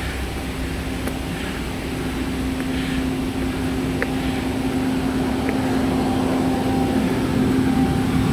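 A steady engine hum over a continuous rumble of noise, slowly growing louder, typical of motor traffic approached on foot.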